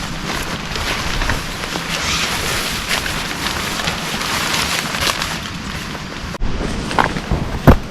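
Heavy rain falling steadily, a dense patter of drops. About six and a half seconds in the sound breaks off abruptly and resumes, and near the end come a few sharper knocks, the loudest just before the end.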